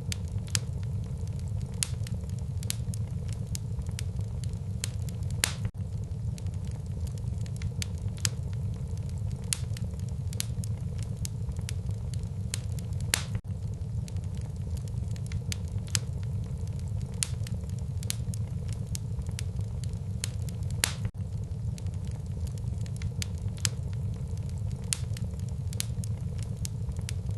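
Wood fire burning in a fireplace: a steady low rumble of the flames with irregular sharp crackles and pops of burning logs, a few of them louder.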